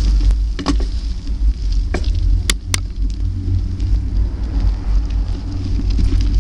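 Wind buffeting the microphone of a camera on a moving bike: a loud, rough rumble with a hiss above it. A few sharp clicks or rattles come through, two of them close together about two and a half seconds in.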